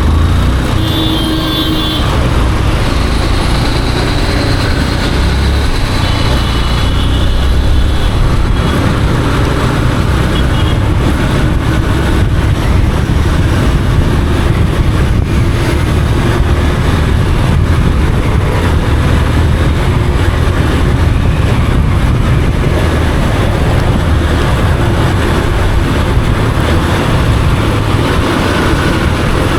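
Yamaha FZ motorcycle on the move in city traffic: a steady low engine rumble mixed with wind and road noise, with other traffic around it and a few brief high tones in the first few seconds.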